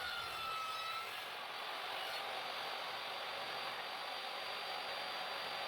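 DeWalt table saw running steadily, with a faint whine that fades out about a second in.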